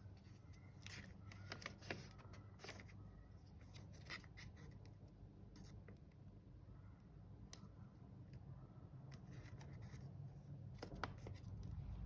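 Faint handling of a paper junk journal: pages being turned and rustled, with scattered soft clicks and crinkles over a low steady hum.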